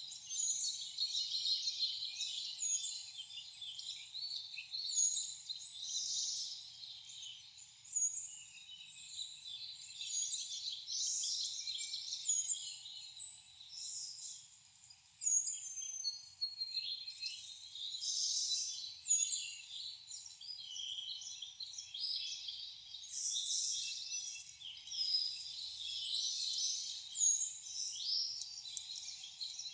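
A dense chorus of wild songbirds singing and calling over one another, with a short high chirp recurring every few seconds.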